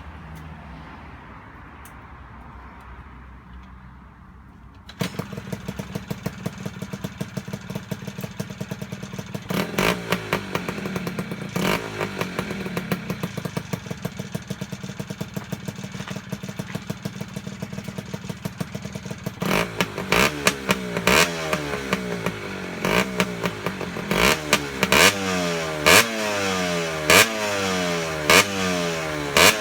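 Yamaha TDR80's two-stroke single-cylinder engine catching about five seconds in and running at a fast, rattly idle. From about twenty seconds in it is blipped again and again, each rev dropping back to idle. This is a start test of an engine with a freshly overhauled top end and carburettor.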